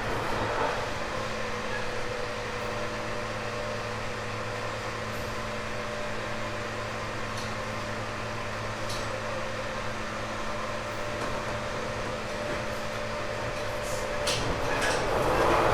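Steady low hum with a few constant tones inside a JR 189-series limited express motor car. Near the end a louder swell comes in with a few sharp clicks.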